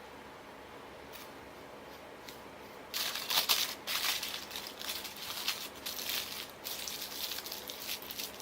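Aluminium foil crinkling and crackling in irregular handling strokes as bleached sections of hair are folded into foil packets. It starts about three seconds in and continues with short sharp crackles.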